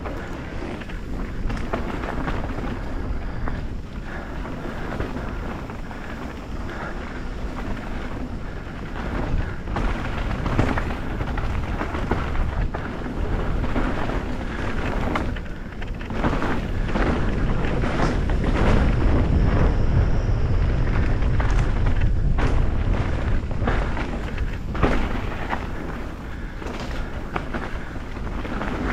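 Mountain bike riding down a dirt trail: tyres rolling over dirt and roots, with frequent rattles and knocks from the bike, under heavy wind rumble on the microphone. The rumble and clatter are loudest in the middle stretch, from about 17 to 23 seconds in.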